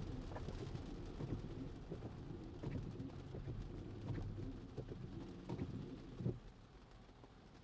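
Cabin noise of a Tesla driving in the rain: a low road and tyre rumble with scattered light taps of rain. The rumble fades about six and a half seconds in, as the car slows.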